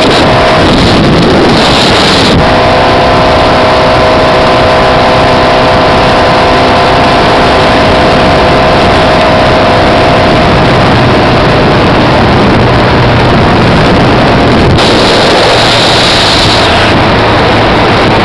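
Motorboat engine running loud and steady at speed, with wind buffeting the microphone throughout.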